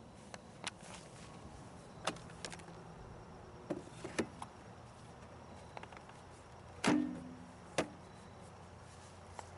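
Scattered sharp clicks and knocks, about ten in all with the loudest about seven seconds in, as the EGO Power+ LM2100 cordless mower's controls are handled; no motor is heard running.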